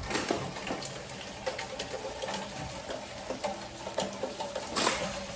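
Heavy rain falling, with many close drops splattering and dripping and a louder splash near the end.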